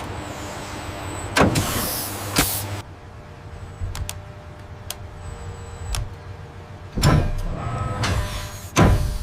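Heavy industrial machinery: a steady low hum with a motor whir, loud bursts of hiss at the start and again near the end, and several sharp mechanical clanks and clicks in between.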